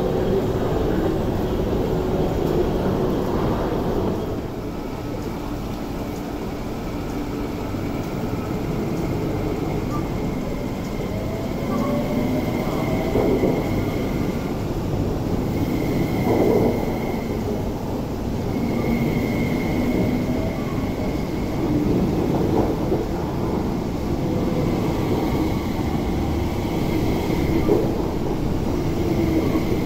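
MTR West Rail Line SP1900 electric train moving along the platform: steady rumble of the carriages on the track, with a high electric whine from the traction equipment that comes and goes several times midway.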